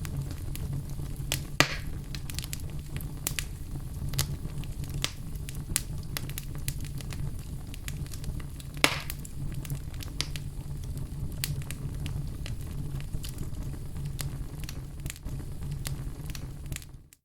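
Wood fire burning in a fireplace: a steady low rumble with frequent small crackles and two louder pops, about one and a half seconds in and about nine seconds in. The sound dips out briefly at the very end.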